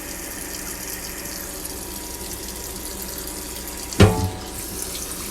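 Tap water running steadily into a kitchen sink. About four seconds in there is one sharp metallic clank that rings briefly.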